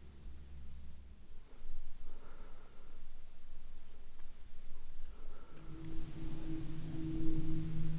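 Crickets trilling steadily, one continuous high-pitched note. About six seconds in, a steady low hum joins them.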